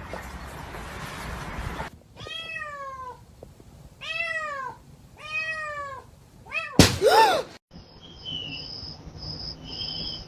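A cat meowing three times in long, arching calls, then a sharp knock and one louder, higher meow.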